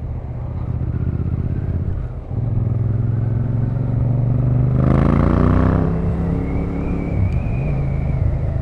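Motorcycle engine running while riding. It drops briefly about two seconds in, then picks up again, its pitch rising with a burst of hiss around five seconds in.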